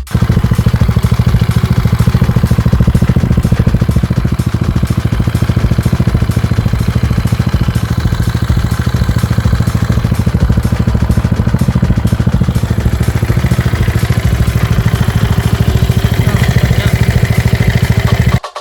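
Modified Yamaha Mio automatic scooter's single-cylinder four-stroke engine running loud and steady with a rapid, even putt-putt beat, a sound likened to a kelotok boat engine.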